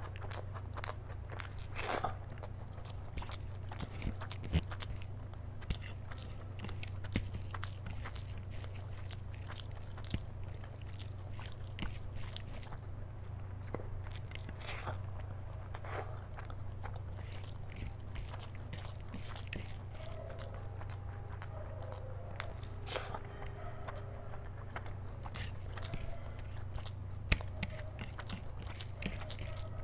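Close-miked chewing of mouthfuls of rice mixed with curry: wet smacking and clicking mouth sounds, irregular throughout, with the hand now and then gathering soft rice on the plate. A steady low hum runs underneath.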